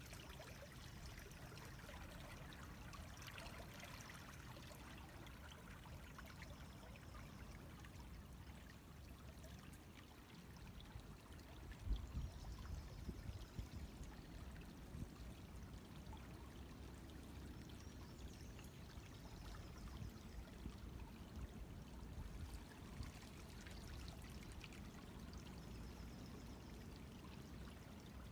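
River water flowing steadily, a faint even rushing with a low rumble underneath. There is a brief louder bump about twelve seconds in.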